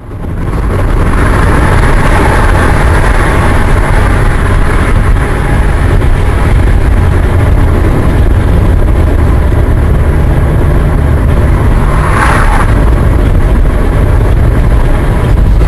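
Loud, steady vehicle noise: engine and road rumble with a heavy low end, and a brief hiss about twelve seconds in.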